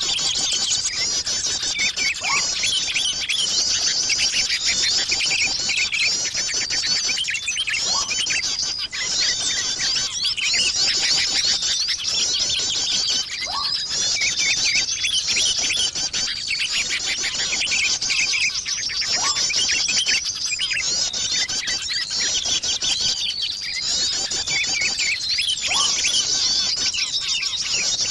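Bird-lure recording of many small birds chirping and twittering densely and without pause, used to draw small birds in. A short rising lower note recurs about every five to six seconds under the chatter.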